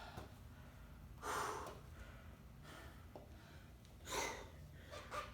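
A person breathing hard from exercise during a workout set: two loud, rushing breaths about a second in and about four seconds in, with fainter breaths between.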